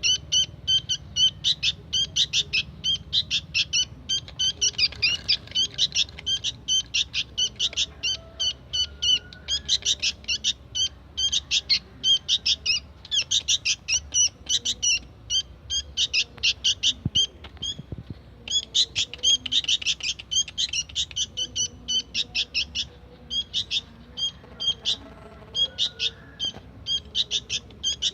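Young sooty-headed bulbul (kutilang) chirping insistently: short, high chirps repeated about four a second in runs, with brief pauses between them.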